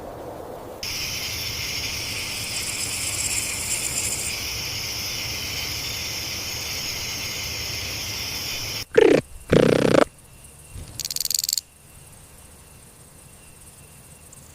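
Steady, dense insect trilling, like crickets, starting about a second in and running until just before the middle. It cuts off and is followed by two loud short lower-pitched sounds, a brief high hiss, then a quieter stretch.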